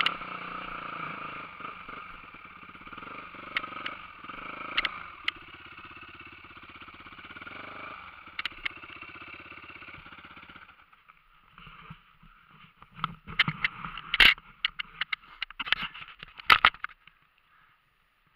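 Dirt bike engine running at low revs, then stopping about eleven seconds in. After it come a string of sharp knocks and scrapes, the loudest sounds here.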